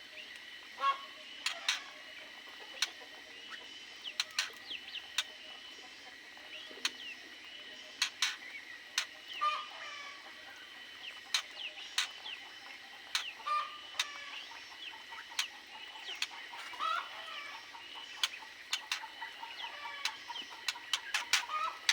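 Aviary birds making short, scattered calls, mixed with frequent sharp clicks at irregular intervals.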